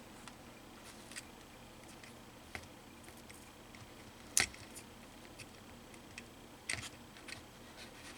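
A few scattered small clicks and taps from handling small parts and a multimeter's probes at a workbench, the loudest about four and a half seconds in and another pair near the end, over a faint steady room hum.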